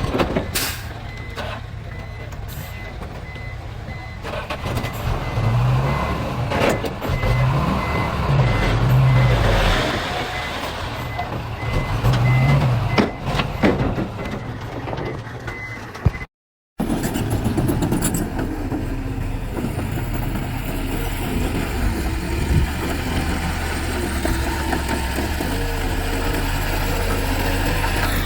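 Diesel dump truck backing up, its reversing beeper sounding in even high-pitched beeps while the engine revs up and down. After a brief cut the beeping stops, and a heavy diesel engine runs steadily.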